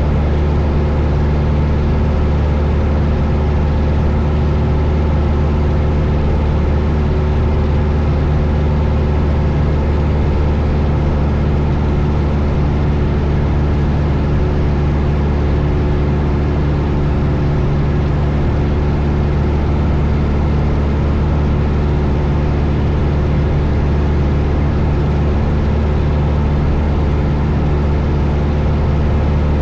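Steady drone of a 1972 Cessna 172 Skyhawk's four-cylinder Lycoming piston engine and propeller in flight, holding an even pitch and level.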